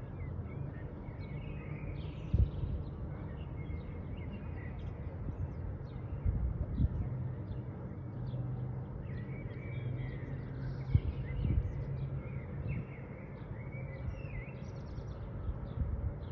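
Small birds chirping and calling intermittently over a steady low background rumble, with a few brief low thumps.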